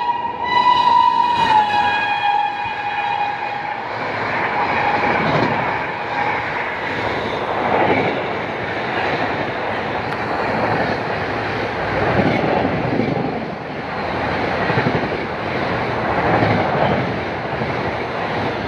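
Indian Railways WAP-7 electric locomotive sounding its horn as it passes at speed, the pitch dropping as it goes by, followed by the steady rolling clatter of its LHB coaches on the rails, swelling about every two seconds as the coaches run through the station.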